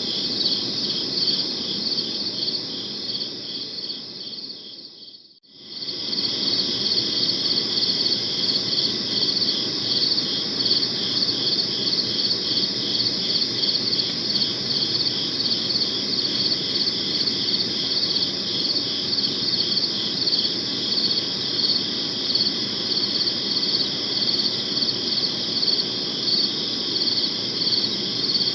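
Chorus of crickets chirping in steady, rapidly pulsing trills over a low, even background rush. About four seconds in, the whole sound fades away to near silence for a moment, then comes back at full level.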